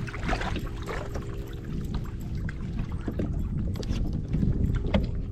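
Water lapping and splashing against a fishing kayak's hull, with a steady low hum underneath and a few brief splashes, one near the start and one about five seconds in.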